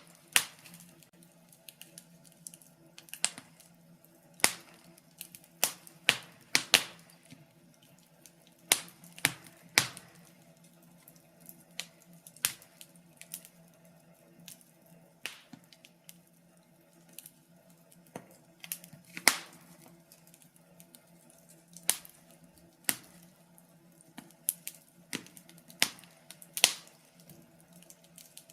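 Wood fire in a fireplace crackling: irregular sharp pops and snaps, a few every couple of seconds, over a faint steady low hum.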